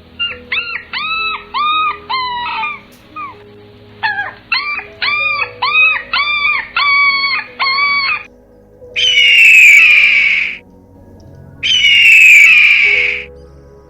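Animal calls: two runs of short, arched calls at about two a second, then two louder, longer calls of about a second and a half each.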